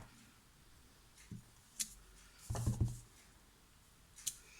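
Faint taps and clicks of a photopolymer stamp being inked and pressed onto card, with one duller knock about two and a half seconds in.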